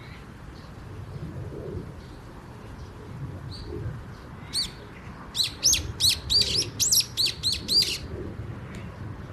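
A small bird chirping: a quick run of about ten sharp, high notes in the second half, with a couple of single chirps before it, over a low steady background rumble.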